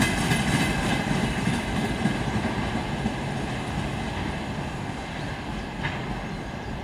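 Broad-gauge freight train's open wagons rolling away on the track, the rumble of wheels on rail fading steadily as the end of the train recedes.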